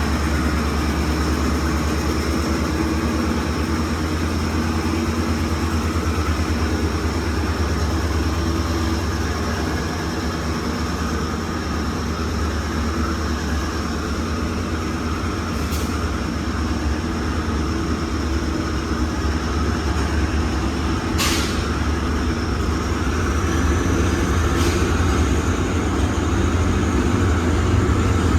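KTM Kargo freight train hauled by a G10 diesel-electric locomotive, running past with a steady low rumble. A thin high whine sits over it throughout, and a few sharp clicks come in the second half.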